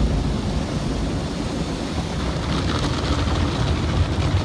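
Automatic car wash machinery running and moving along the car, heard from inside the car as a steady low rumble with a rising hiss about halfway through as it comes closer.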